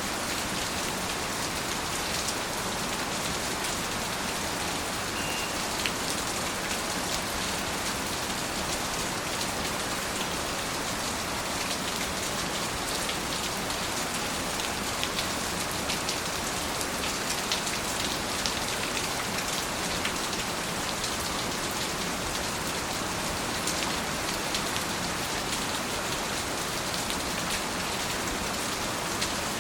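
Steady rain falling: an even hiss with many sharp ticks of individual drops scattered through it.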